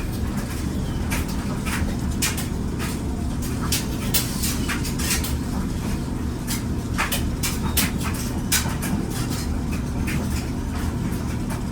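Clothes dryer running with a steady low rumble, with irregular short clicks and ticks over it.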